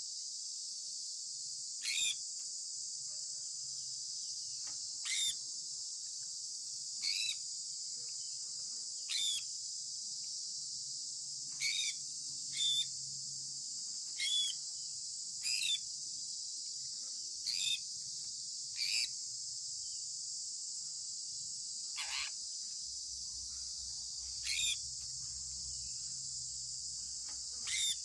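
Sun conure giving short, sharp chirps, about a dozen spaced one to three seconds apart, over a steady high-pitched hiss.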